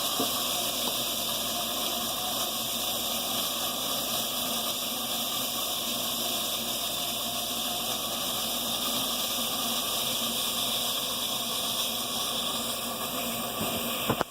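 Furnace running with a steady rushing noise that cuts off abruptly at the very end.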